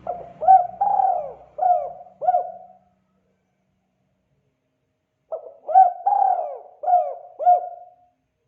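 Spotted dove (tekukur) cooing in the 'kuk 2' call style, two phrases of about five coos each, separated by a pause of roughly two and a half seconds.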